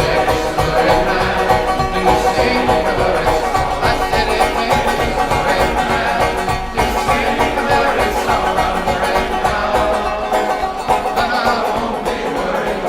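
Bluegrass band playing an instrumental break led by picked banjo, with a steady rhythm.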